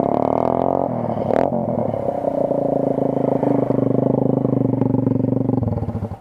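Motorcycle engine running; its pitch falls over the first second, then holds steady, with one sharp knock about a second and a half in. It cuts off abruptly near the end.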